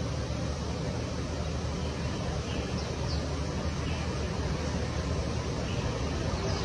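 Steady outdoor background noise, heaviest in the low range, with a few faint, short high chirps from birds scattered through it.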